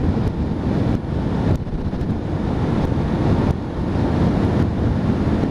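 Wind rushing over the microphone of a motorbike in motion, a steady low rumble with the bike's running noise buried underneath.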